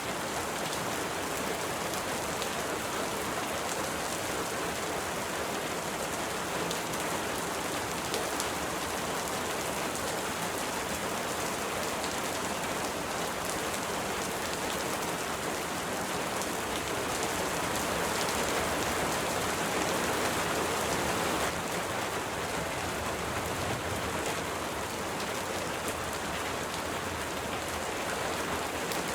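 Steady rain falling, an even hiss with faint patter of drops, growing a little heavier for a few seconds about two-thirds of the way through.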